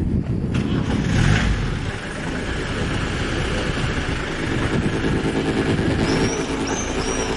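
Sound-art soundscape: a dense low rumbling drone layered with steady low tones, swelling briefly about a second in. Near the end a run of short high chirps comes in.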